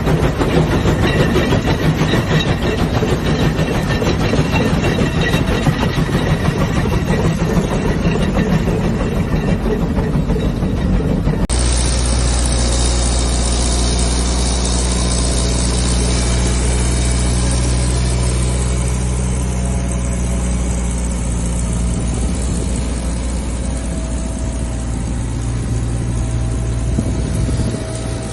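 Rattling, clattering machinery noise. About 11 seconds in it cuts abruptly to a motor engine running steadily at a low, even speed.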